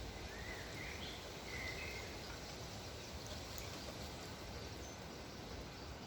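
Steady wind noise with a few birds chirping: a short run of rising, wavering calls in the first two seconds, then only faint scattered chirps.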